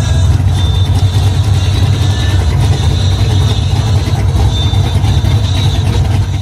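A car engine idling, loud and steady, with a deep, even rumble.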